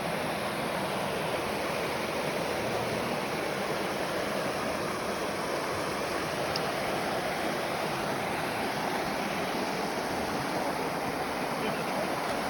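Waterfall rushing steadily, an even roar of falling water with no break or change.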